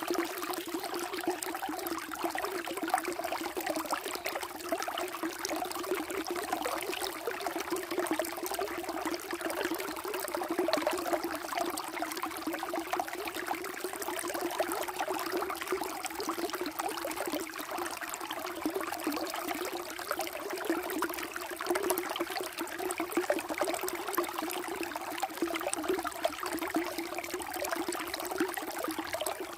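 Flowing water running steadily, a continuous burbling trickle with no pauses.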